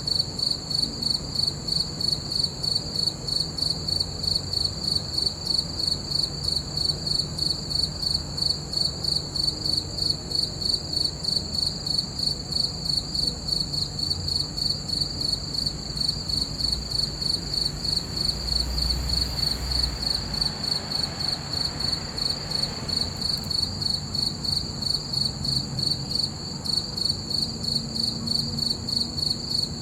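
Crickets chirping in a steady, even rhythm, a high-pitched pulsed trill repeating a few times a second.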